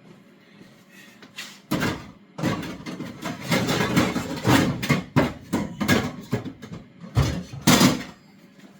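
Kitchen handling noise: irregular clatter and knocks of cookware and utensils being moved about, with a heavy thump about seven seconds in.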